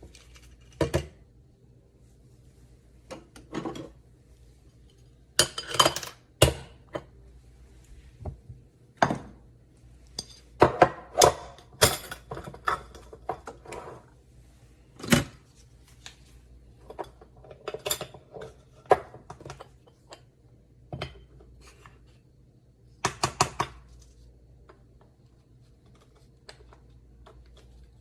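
Irregular clacks, clinks and knocks of hard kitchen items being handled, some in quick clusters, separated by pauses, over a faint steady hum.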